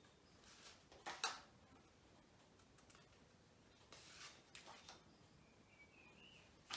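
Near silence with a few faint paper rustles and soft clicks as flashcards are handled and turned, about a second in and again around four seconds in.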